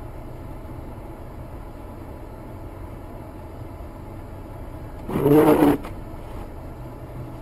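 Steady low rumble of a car engine idling in traffic, heard from inside the car, with one loud, short pitched blast about five seconds in.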